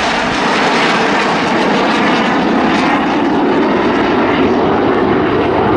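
BAE Hawk T1 jet trainers, each with a Rolls-Royce Turbomeca Adour turbofan, flying past low in formation aerobatics, with a loud, steady jet roar.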